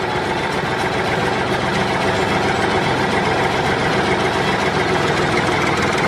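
Small engine of a homemade mini tractor running steadily at an even pace.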